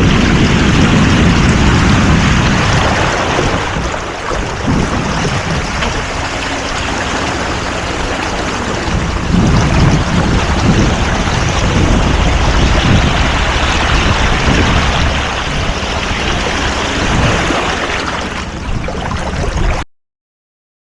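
Wind buffeting the microphone over water rushing along a sailboat's hull, with low gusting rumbles. It cuts off abruptly about a second before the end.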